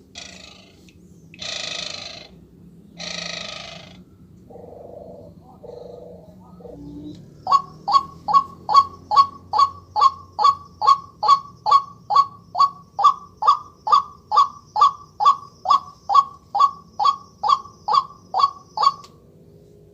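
Recorded bird calls played through an electronic bird caller's speaker: three harsh, rasping calls, then a couple of lower short notes, then a long run of short, quick downward-slurred calls repeated evenly about two and a half times a second, stopping abruptly.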